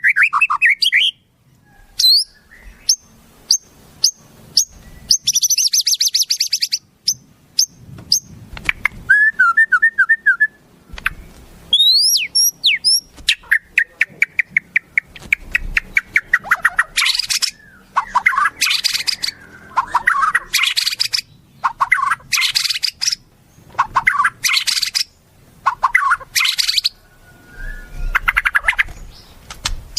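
Wild songbirds calling and singing in a varied mix: sharp chirps, quick rising whistles and rapid runs of notes. In the second half, loud buzzy trills come in bursts every second or two.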